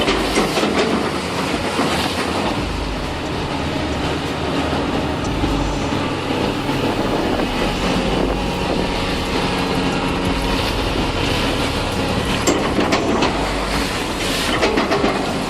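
Heavy vehicle or machine running steadily, with rattling and clanking and a few sharp knocks.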